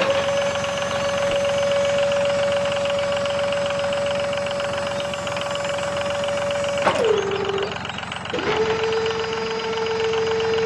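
Small motor of a toy tipping trailer whining steadily as the bed tips its load of sand, then sliding down in pitch and stopping about seven seconds in. It starts again a second and a half later at a slightly lower pitch and winds down the same way near the end, over a steady fast rattle.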